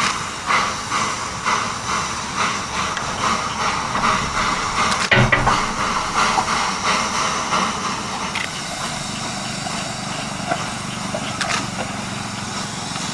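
Steam locomotive's exhaust chuffing at about two beats a second. The beats fade after about eight seconds into a steady hiss of steam. A sharp knock sounds about five seconds in.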